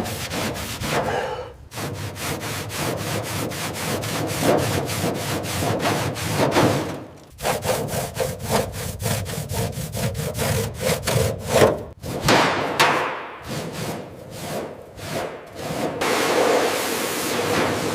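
Fast back-and-forth rubbing strokes of a hand tool working a surface, about five strokes a second, broken by short pauses about a second and a half in, about seven seconds in and about twelve seconds in. Near the end the strokes give way to a steadier hiss.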